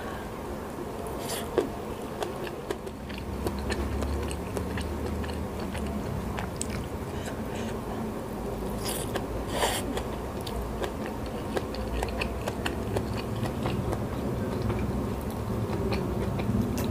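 Close-miked chewing and biting of a mouthful of rice with sambal goreng pare (bitter melon fried with anchovies), eaten by hand, with many short clicks. The sharpest bites come about a second and a half in and again near ten seconds.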